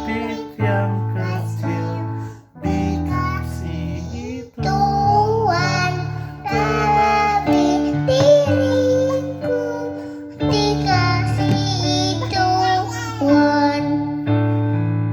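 A young child singing an Indonesian children's song in short phrases, with strummed guitar accompaniment.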